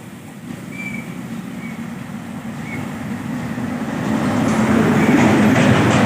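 Heavy truck's diesel engine labouring up a steep climb, growing louder as it comes closer, with a clatter of rattling clicks near the end.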